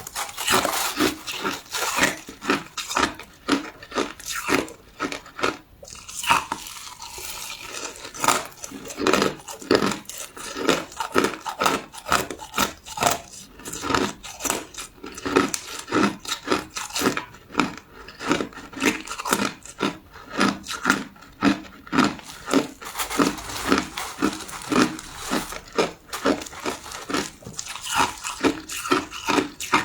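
Crushed ice being chewed, with rapid, irregular crunches a few times a second and a brief softer spell.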